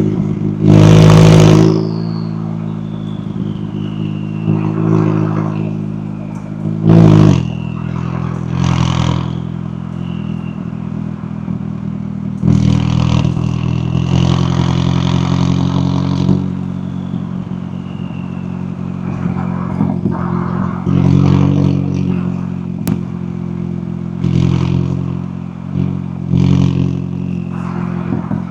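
McLaren 570S twin-turbo V8 running under way, with several short bursts of throttle and a longer pull in the middle. A high whistle falls away in pitch after some of the bursts.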